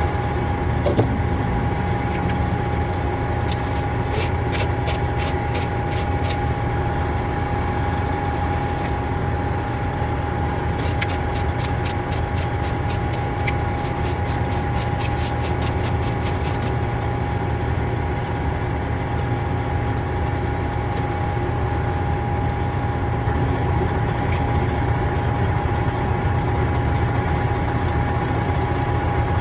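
Steady idling engine drone with a constant whine over it. Two runs of rapid clicking, a few clicks a second, come a few seconds in and again around the middle.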